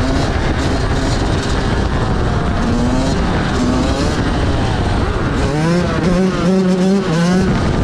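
Motorcycle engines running during a group ride over heavy wind and road noise. The engine pitch rises and falls, with a run of short, choppy revs in the last couple of seconds.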